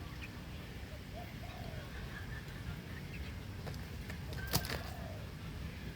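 A few faint short bird calls over a steady low rumble, with one sharp click about four and a half seconds in.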